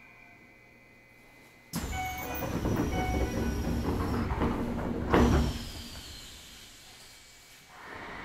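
Keisei 3000 series commuter train standing at a station: a sudden loud hiss and rattle starts about two seconds in, ends with a thump about three seconds later, and then dies away.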